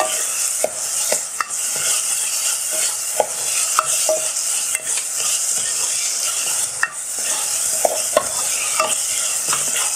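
Diced onion and tomato paste sizzling in hot oil in a pot, stirred with a plastic spoon that scrapes and taps against the pot now and then. The tomato paste is being fried until it no longer smells raw.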